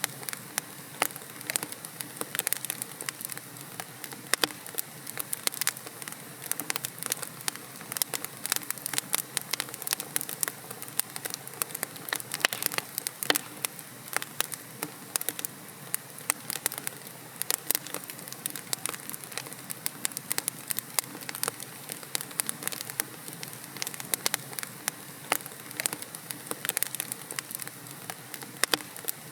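Wood fire burning in a fireplace, with a steady soft hiss and many sharp, irregular crackles and pops from the logs.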